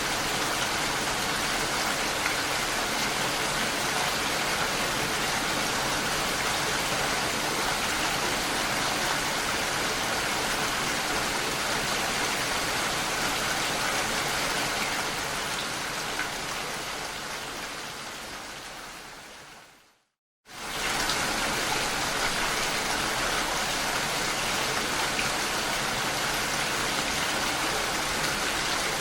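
Steady rain. About two-thirds of the way through it fades away over several seconds to a brief silence, then cuts straight back in at full level.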